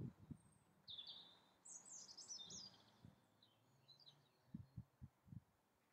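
Near silence with faint birdsong: a short run of high chirps and twittering calls from about one to three seconds in, and a few soft low thumps.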